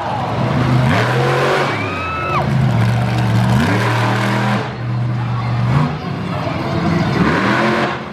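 Monster truck engine revving, its pitch rising and falling several times, with steadier stretches of running in between.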